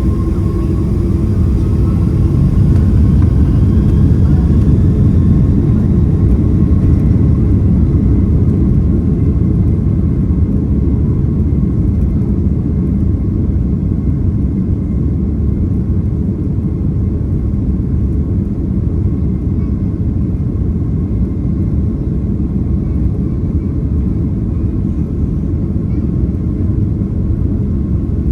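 Boeing 767-300ER jet engines at takeoff thrust, heard from inside the passenger cabin: a loud, steady rumble with a faint rising whine in the first few seconds, easing slightly after about five seconds.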